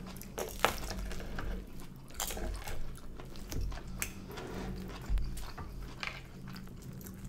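Close-up chewing and biting of a roast lamb shank dinner, with a few short light clicks of knife and fork on the plates.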